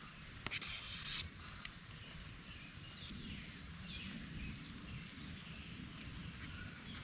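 A brief scraping rustle, about half a second long, a little under a second in, then a few faint bird chirps over low outdoor background noise.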